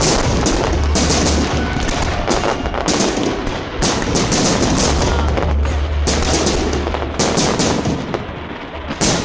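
Fireworks display: aerial shells bursting in rapid, overlapping bangs and crackles, several a second. They ease off briefly near the end before one more loud bang.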